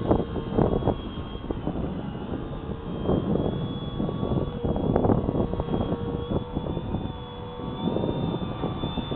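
Parkmaster 3D electric model airplane's motor and propeller whining at a steady pitch that drifts a little with throttle, heard under loud, gusty wind buffeting on the microphone.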